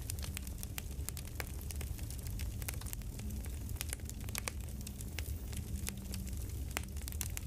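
Crackling campfire: irregular pops and snaps over a low steady rumble.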